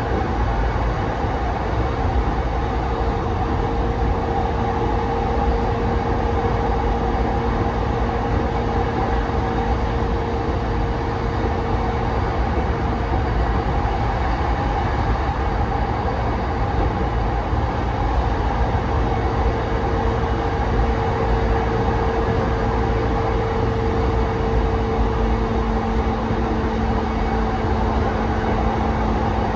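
Interior running sound of a JR East E233 series 5000-subseries electric train travelling at steady speed. A continuous deep rumble of wheels on rail carries steady humming tones that fade briefly midway and return.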